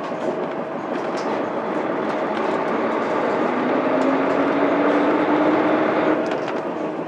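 Mitsubishi Fuso Aerostar bus's 6M70 straight-six diesel running under way with road noise, heard from inside the bus. The engine note climbs slowly as the bus accelerates in gear, then eases off near the end.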